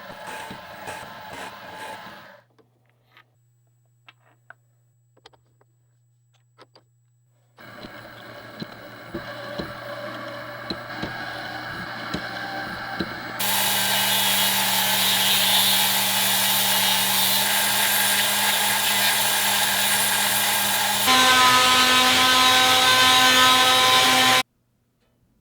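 Shop power tool running against a workpiece in a run of edited clips. It starts and stops abruptly: a short rhythmic stretch, a quiet gap with a few ticks, then a steady grinding hiss that builds up and becomes loudest, with a steady whine, before cutting off suddenly near the end.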